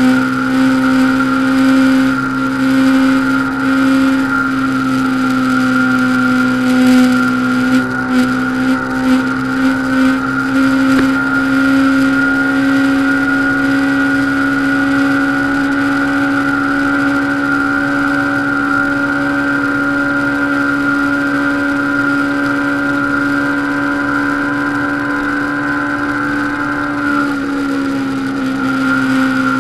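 Honda CBR500R's parallel-twin engine held at a steady high speed during a top-speed run, heard from on board with wind rush over it. The engine note holds one pitch and drops slightly near the end.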